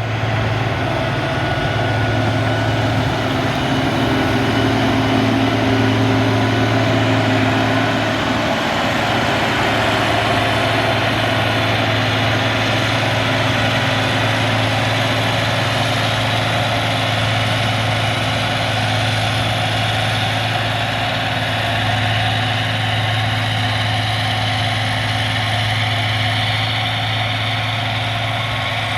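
Diesel engine of a Caterpillar 140G motor grader running steadily, a continuous heavy low hum.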